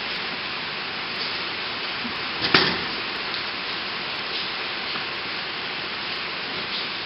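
Steady hiss of rain falling, with one sharp knock about two and a half seconds in.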